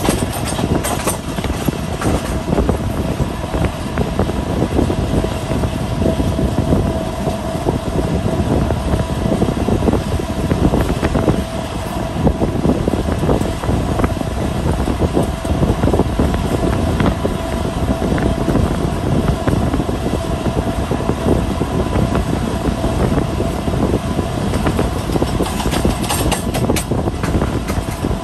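Passenger train running at speed, heard from aboard: a steady rumble of wheels on the track with a faint steady hum, occasional clicks, and a cluster of sharper clicks over rail joints near the end.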